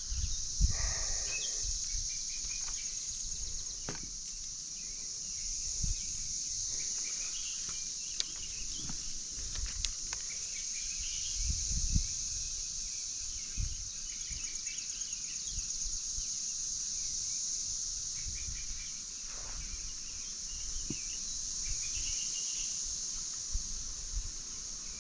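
Steady high-pitched drone of a periodical cicada chorus (17-year cicadas), under an uneven low rumble of wind on the microphone and a few faint knocks.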